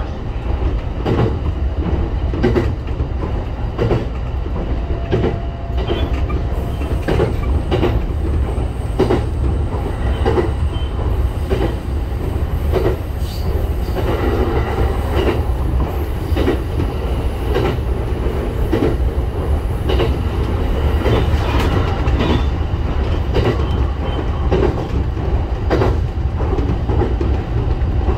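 Local train running along the line, heard from inside: a steady low rumble with the wheels clicking over rail joints about once a second.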